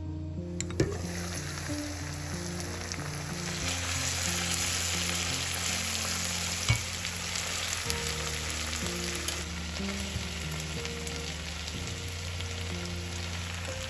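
Food frying in oil in a pan: a steady sizzle that swells in about a second in, with a sharp click about halfway through.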